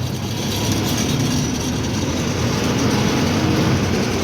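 Truck's diesel engine running under way, with steady road noise, the engine note wavering a little and growing slightly louder.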